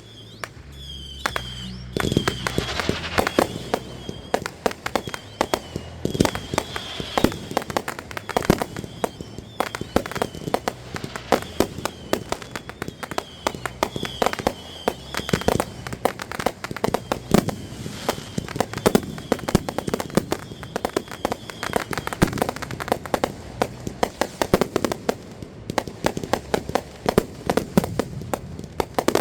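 Fireworks going off in a dense, continuous run of cracks and pops, starting about two seconds in, with a wavering high whistle over much of it.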